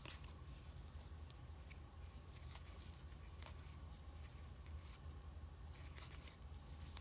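Faint rustling and light scraping clicks of trading cards and their pack wrapper being handled, over a low steady hum.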